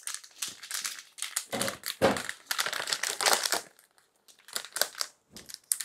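Packaging being opened and handled, with irregular crinkling and crackling in bursts and brief pauses between them.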